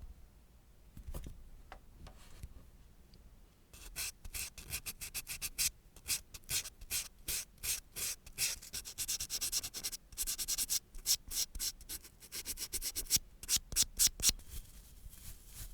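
A nail file rubbing back and forth across a nail in quick strokes, about three a second. The strokes start about four seconds in after a few faint scratches, and run together into steady rubbing partway through.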